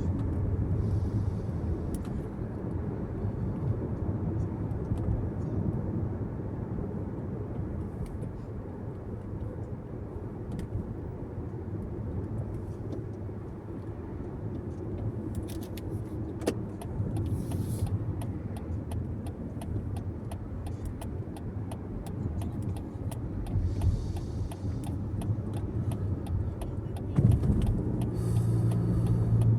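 Car being driven, heard from inside the cabin: steady tyre and engine rumble. A run of light, regular ticks comes in during the second half.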